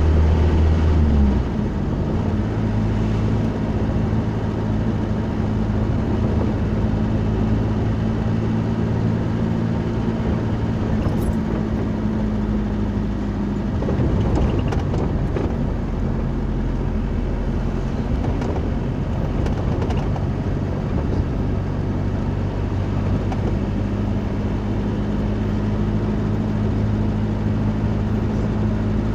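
Car running, heard from inside the cabin: a steady low engine hum over road noise, its pitch shifting a little about a second in and again about halfway through.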